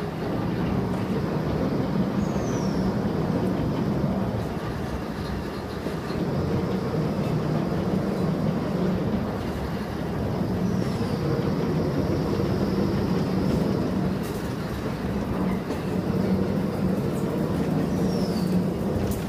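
Vertical turret lathe running and machining: a steady mechanical rumble, with a brief high falling squeal about every eight seconds.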